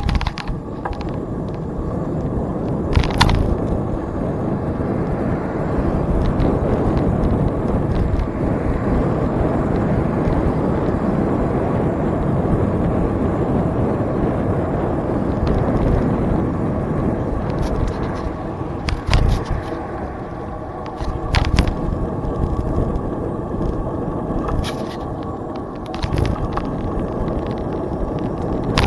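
Steady noise of a bicycle being ridden along a trail, the tyres rumbling, with a few sharp knocks or rattles from bumps scattered through.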